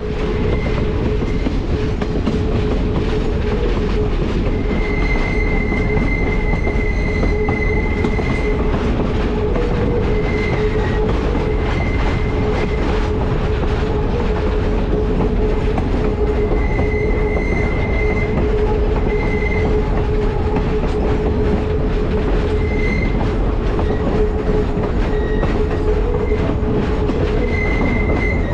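Passenger train cars rolling along the track: a steady rumble of wheels on rail with a constant hum. High wheel squeals come and go several times, the longest lasting a few seconds.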